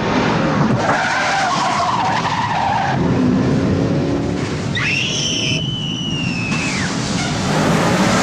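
Car engine running hard with tyres squealing: a wavering screech in the first few seconds, then a higher-pitched squeal from about five to seven seconds in.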